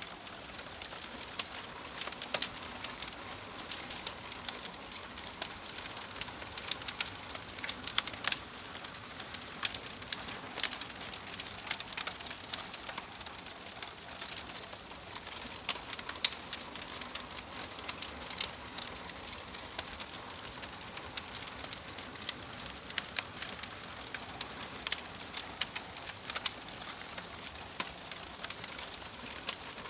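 Wood fire burning in a fireplace: a steady soft hiss with many irregular sharp crackles and pops.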